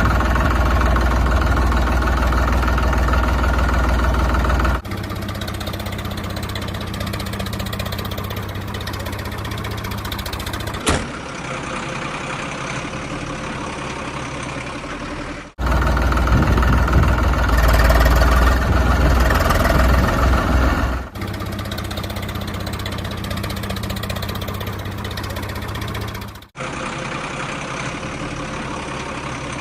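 Tractor engine running steadily, in several spliced segments that switch abruptly in loudness about every five seconds, with a sharp click about eleven seconds in.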